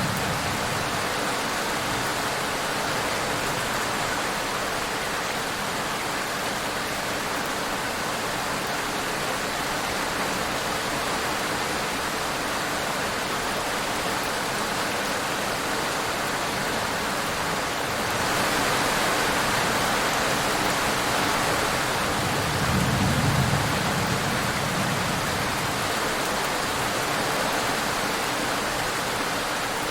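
Steady rainfall, a dense, even hiss of rain. It grows heavier about eighteen seconds in, and a brief low rumble comes a few seconds later.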